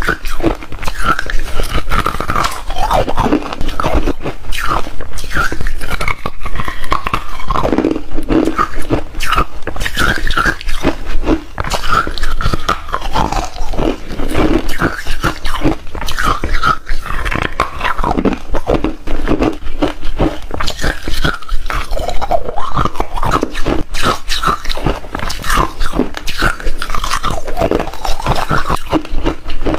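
Hard refrozen ice being bitten and chewed close up: a dense, continuous run of sharp cracks and crunches.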